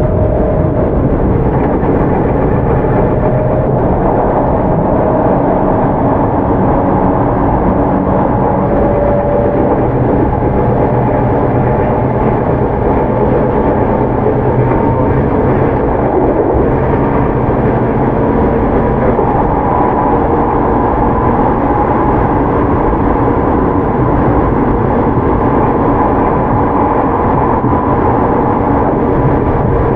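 Onboard running sound of a Tokyu 9000 series electric commuter train: a steady rumble of wheels on rail, with faint tones that drift slightly higher in pitch over the second half.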